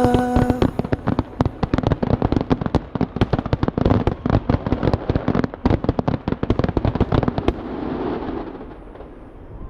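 Fireworks going off: a dense, rapid string of sharp cracking bangs, several a second. About seven and a half seconds in it stops and dies away into a softer fading noise.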